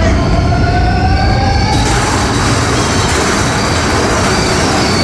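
Mine-train roller coaster running on its track: a rising whine for the first two seconds, then a loud rushing rumble as the train picks up speed.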